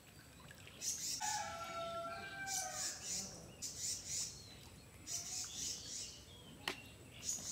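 Birds chirping: short high chirps repeated about once or twice a second, with a longer call held at a few steady pitches from about one to three seconds in. A single sharp click comes near the end.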